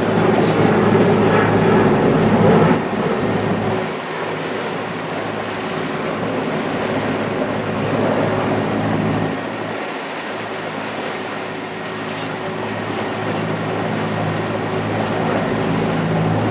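A boat's engine running steadily, with the rush of water and wind around it. It is a little louder for the first few seconds.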